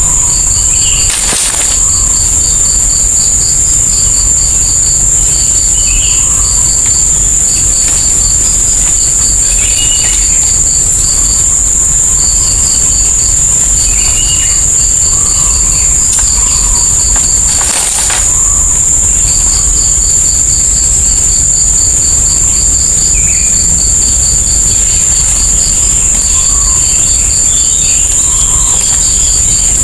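Steady high-pitched insect drone, with a rapidly pulsing insect chirp that stops and starts and scattered short bird calls.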